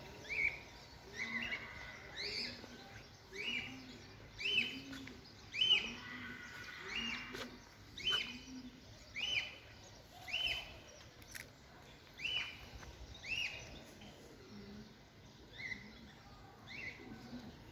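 Songbirds singing: short arched chirps repeated about once a second, with fainter calls in between, over a soft outdoor background.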